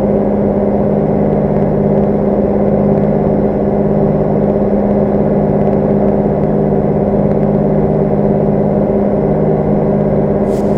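Large farm tractor's diesel engine running steadily at constant speed, with one short click near the end.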